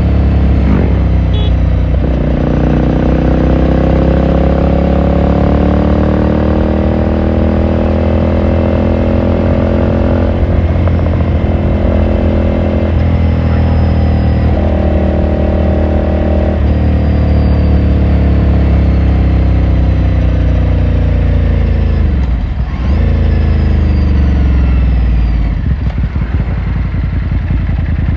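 Ducati Scrambler Sixty2's 399 cc air-cooled L-twin engine running on the move, heard from the saddle: the revs climb steadily for several seconds, step up and down a few times, then fall away sharply twice near the end.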